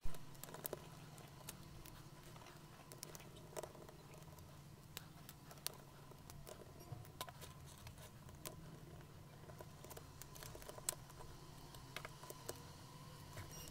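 Faint, scattered clicks and taps of small parts being handled on a Sony cassette deck's tape mechanism during disassembly, over a low steady hum.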